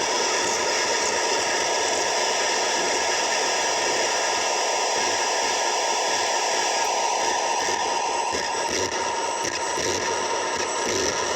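JMT custom noise synth playing a steady, dense wash of hissing noise with a few held tones inside it.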